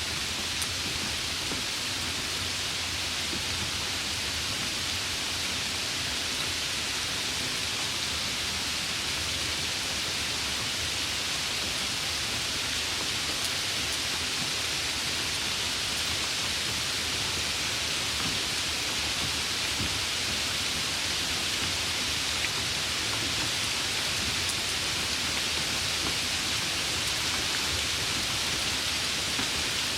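Steady rain: an even, unbroken hiss with a few faint drop ticks.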